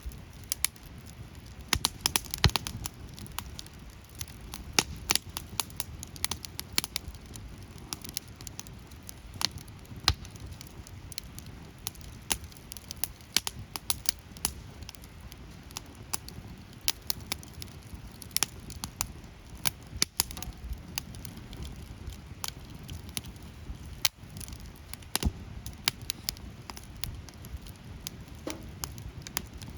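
Wood bonfire crackling: irregular sharp pops and snaps, several a second at times, over a steady low rush.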